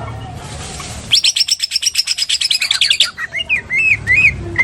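Greater green leafbird (cucak ijo) singing. About a second in it breaks into a fast, loud chattering trill of some two dozen sharp notes, a lovebird-style 'ngekek' in its song. This then gives way to slower, separate whistled notes that slide down, about three a second.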